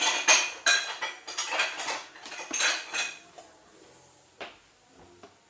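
Metal cutlery clinking and scraping rapidly against a dish for about three seconds, then a few lighter clinks.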